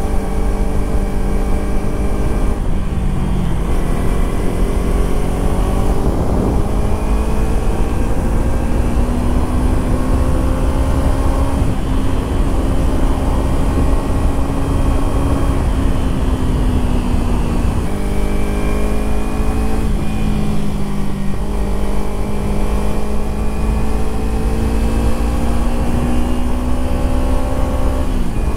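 Kawasaki Ninja 300 parallel-twin engine running under way, its pitch climbing slowly and dropping back sharply a few times, with wind rushing on the microphone.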